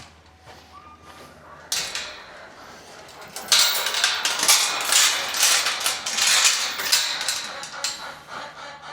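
A single knock about two seconds in, then a few seconds of dense rustling and crackling, typical of dry baled hay being handled and pulled apart.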